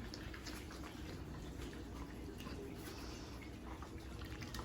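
Puppies eating from their food bowls: faint, irregular little clicks and taps over a low steady room hum.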